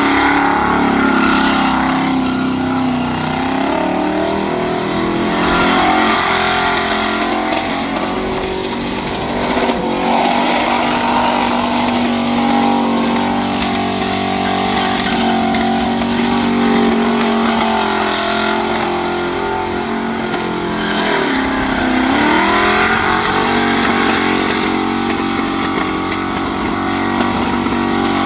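V8 muscle car engine held at high revs during a burnout. The revs waver, then drop sharply about three quarters of the way through and climb back up.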